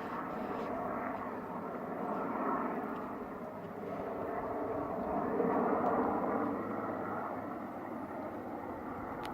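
Helicopter running, a steady engine and rotor noise that swells about two and a half seconds in, swells again around six seconds, then eases off.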